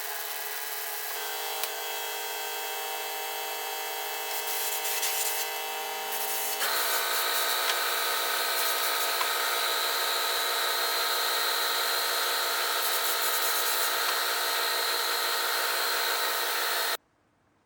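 Electric power tool running steadily while it rubs and abrades a part, with a rough hiss over a steady motor tone. The motor note steps to a new pitch about a second in and again about a third of the way through, then stops abruptly near the end.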